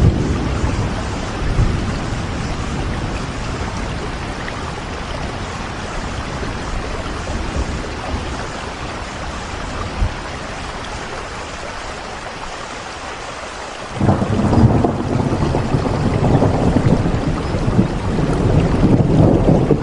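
Steady rain falling, with thunder rumbling low underneath; a louder, deeper rumble swells in suddenly about two-thirds of the way through.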